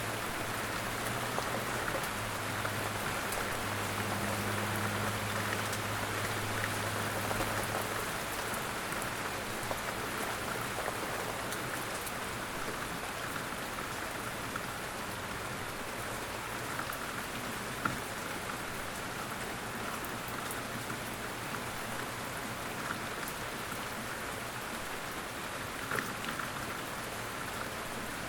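Light rain falling steadily, an even patter with a few louder single drops. A faint low hum sits under it during the first several seconds.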